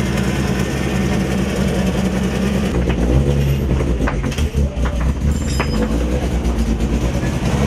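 Volkswagen Polo rally car's engine running hard on a stage, with heavy road noise. The engine note shifts about three seconds in, and a few sharp knocks come in the middle.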